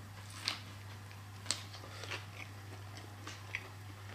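A person biting into and chewing a battered piece of cooked rabbit close to the microphone, with about five short, crisp crunches of the coating spread through the chewing.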